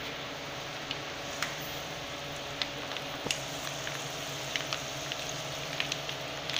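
Rabbit adobo in thick soy and oyster sauce sizzling and bubbling in an aluminium wok, a steady hiss with scattered small pops, as coconut milk is poured in from a pouch.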